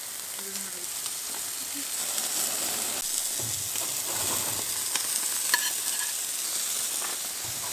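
Burgers frying, a steady sizzling hiss with a few sharp clicks, the sharpest about five and a half seconds in.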